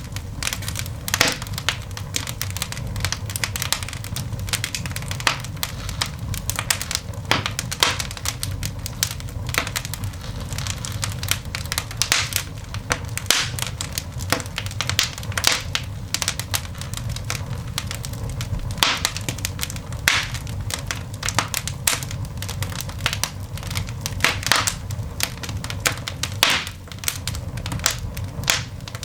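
Coal fire burning in a cast iron dog grate, crackling with irregular sharp snaps and pops over a steady low rumble.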